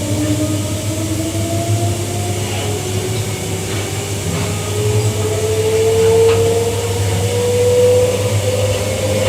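Queensland Rail EMU electric train's traction motors whining, the pitch rising slowly and steadily as the train accelerates, over a steady low hum.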